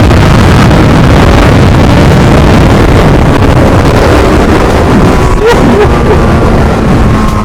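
Yamaha FZ6R inline-four motorcycle riding at speed through its Delkevic aftermarket exhaust, heavily masked by wind buffeting the microphone. The pitch shifts briefly about five and a half seconds in.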